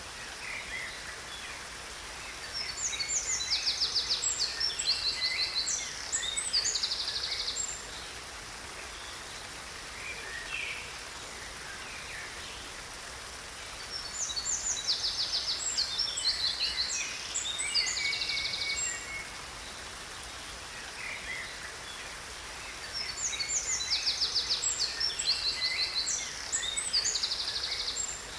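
A songbird sings three bouts of about five seconds each, full of fast trills, over the steady rush of a waterfall.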